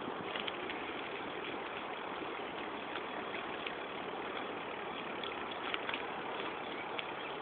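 Steady rushing noise of a bicycle ride, wind and road noise on the microphone, with scattered faint small clicks.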